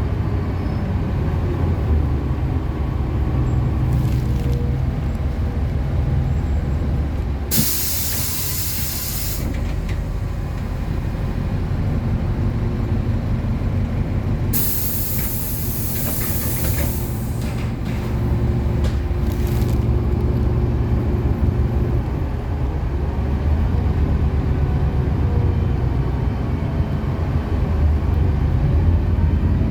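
City bus engine running with a steady low rumble, heard from inside the bus. Two loud bursts of compressed-air hiss from the bus's pneumatics, one about a quarter of the way in and a longer one near the middle, with short puffs after it, typical of air brakes and doors at a stop.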